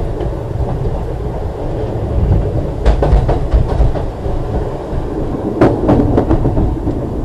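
Ex-Liverpool Corporation tram 869 running on its rails: a steady low rumble of wheels on track, with two clusters of sharp wheel knocks, about three seconds in and again near six seconds.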